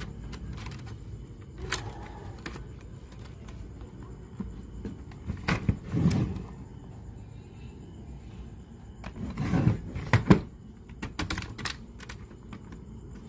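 Clicks, light rattles and rustling from small parts and tools being handled, with two louder spells of scraping and rustling about a third of the way in and again near two-thirds, over a steady low hum.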